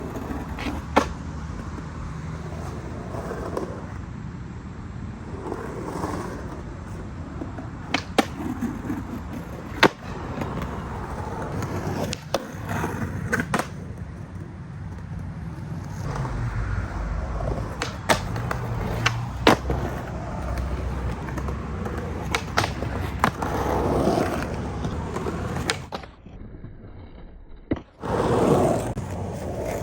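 Skateboard rolling with a steady wheel rumble, broken about seven times by sharp clacks of the board hitting the ground, as in pops, tail taps and landings. The sound drops away briefly near the end.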